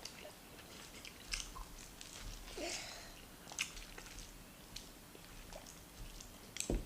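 Close-up eating sounds: chewing and biting into rice and stew with meat, with scattered short wet clicks and smacks from the mouth.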